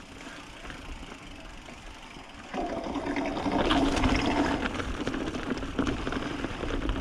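Mountain bike rolling down a dirt and rock trail, tyre noise and rushing air picked up by a bike-mounted action camera, growing louder about two and a half seconds in as the bike picks up speed, with a steady buzzing tone over it.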